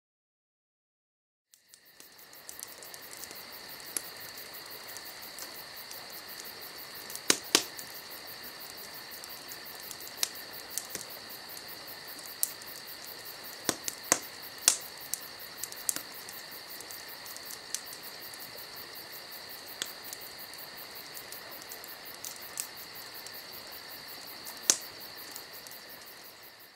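Wood fire crackling, with sharp irregular pops over a steady hiss and a steady high-pitched chirring. It starts about a second and a half in.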